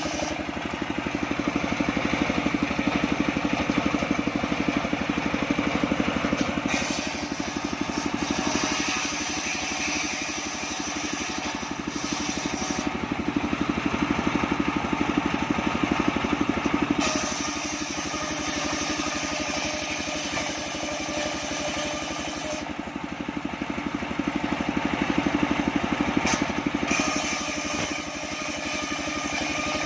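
Homemade engine-driven circular saw machine running steadily while sawing sengon wood. It grows louder three times, for several seconds each.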